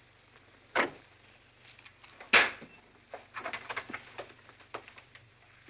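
Two sharp knocks about a second and a half apart, then a run of lighter taps and clicks.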